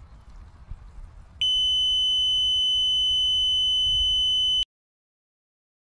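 Heron dipper-T water level meter's buzzer sounds one steady, high-pitched beep tone. It starts abruptly about a second and a half in, holds for about three seconds and cuts off. The tone signals that the pumped-down water has dropped below the probe tip, so the probe is in air. A low rumble comes before it.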